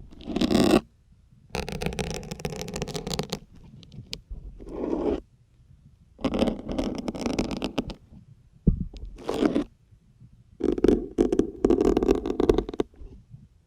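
Syringe needles pushed one after another into a firm gray foam sponge, each push a scraping, creaking crunch of foam. The pushes come in separate strokes, some brief and some drawn out over a second or two, with short pauses between them and a sharp click a little past the middle.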